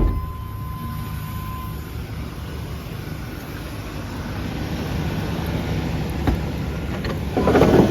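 1996 Chevy pickup's 5.0 Vortec V8 idling steadily. Near the end there is a brief louder noise.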